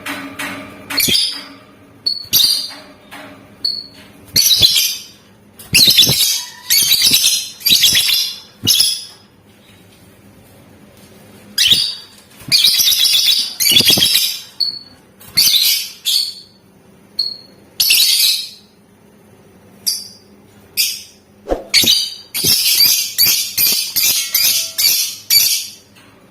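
Lovebird singing in shrill, rapid chattering bursts of a second or two each, with a quick run of repeated bursts near the end.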